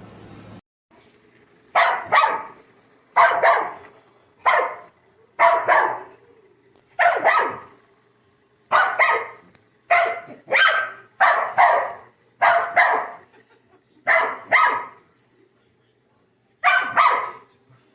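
A dog barking repeatedly, mostly in quick double barks about a second or two apart, over a faint steady hum.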